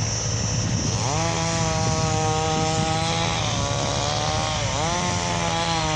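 Hydra mobile crane's diesel engine and hydraulics working under load as it drags a stuck truck out, a steady rumble with a whine that rises about a second in and sags briefly near the end as it strains.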